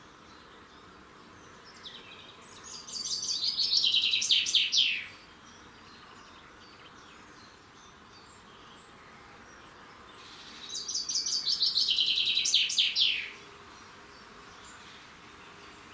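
A songbird singing two song phrases about eight seconds apart. Each is a quick run of high notes lasting about two and a half seconds, dropping in pitch towards the end.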